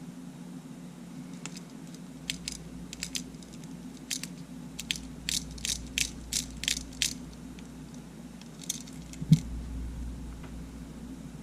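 Small sharp mechanical clicks from a Sony A7 camera being fitted back together: a quick run of about a dozen in the middle, then a few more and one sharper knock near the end, over a steady low hum.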